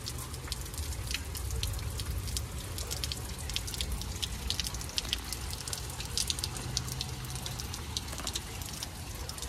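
Scattered raindrops ticking and dripping in short, irregular taps as a thunderstorm starts, over a steady low rumble.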